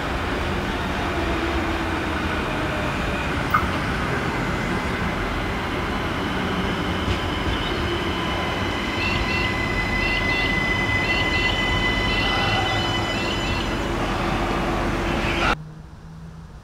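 Adelaide Metro 3000-series diesel railcar running in toward the station: a steady rumble of engine and wheels on the rails, with thin high steady tones over it, growing slightly louder toward the middle. It cuts off abruptly near the end.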